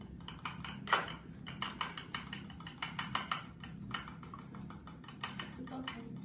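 An egg being beaten in a bowl with a utensil: quick, uneven clicking strokes against the bowl, roughly six a second, with one louder clink about a second in.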